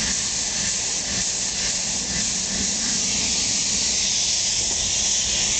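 Air-fed paint spray gun hissing steadily as it sprays a coat of epoxy primer.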